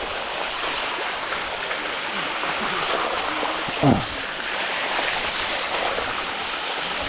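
Waterfall water rushing steadily over rock. About four seconds in, a short falling vocal sound from one of the climbers.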